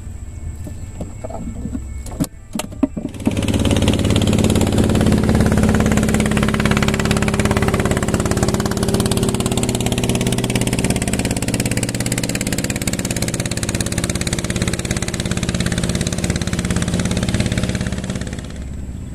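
A small boat's engine running loud and steady. It comes in suddenly about three seconds in, after a few knocks, and drops away near the end.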